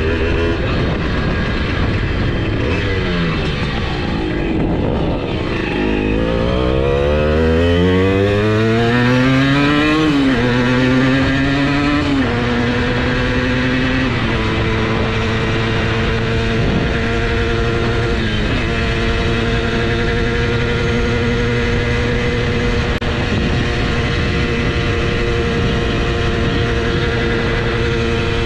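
Simson S51 moped's 85cc two-stroke single-cylinder engine at full throttle on a top-speed run: the engine note climbs steeply about five seconds in, drops in a few steps as it shifts up through the gears, and then holds a steady high note for the last ten seconds.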